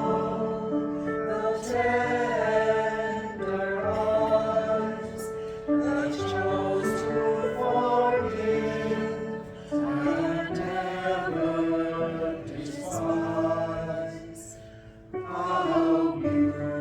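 Choir singing, in phrases with short breaks between them.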